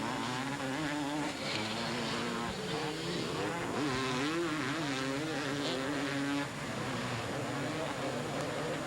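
Two-stroke motocross bikes racing, their engines revving up and falling off in pitch as the throttle is worked. Several bikes are heard at once, with overlapping engine notes.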